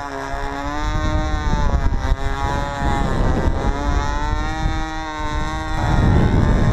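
Small glow engine of a control-line model aeroplane running at full throttle, its buzzing pitch rising and falling every second or two as the plane circles. Heavy wind rumble on the microphone, strongest near the end.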